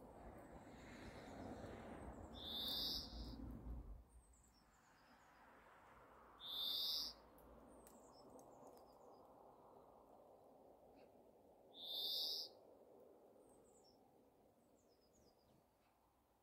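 A bird calling: a single short, high note repeated three times, about every four to five seconds, with faint small chirps between. A low rushing background noise drops away suddenly about four seconds in.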